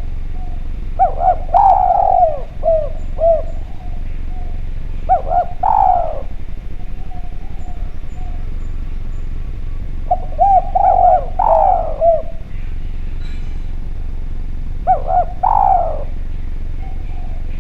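A spotted dove (derkuku) cooing in four phrases a few seconds apart, each a quick run of short coos ending in a longer one. Fainter coos sound between the phrases over a steady low hum.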